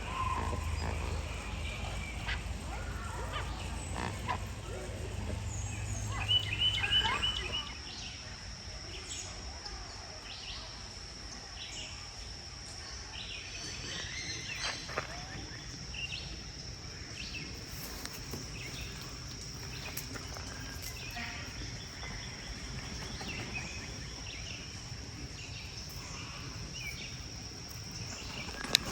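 Birds calling, with a quick run of repeated call notes about six seconds in; from about eight seconds on, a steady high-pitched insect buzz with scattered short chirps.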